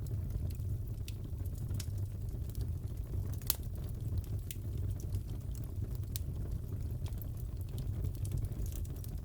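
Crackling fireplace: a steady low rumble of the burning fire with irregular sharp pops and crackles from the wood, one louder pop about three and a half seconds in.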